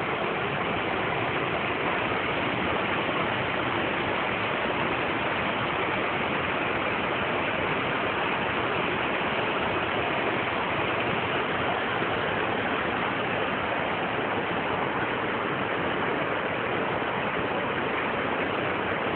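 Waterfall rushing: a steady, unbroken roar of falling water at a constant level.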